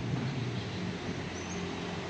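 Outdoor street ambience: a steady hiss with a low motor hum under it, and a short high chirp, like a small bird's, about one and a half seconds in.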